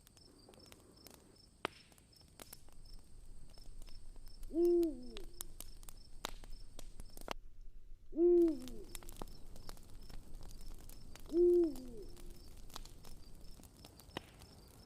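An owl hooting three times, about three and a half seconds apart, each hoot a short note that drops in pitch at its end. Behind it a campfire crackles and pops with scattered sharp snaps.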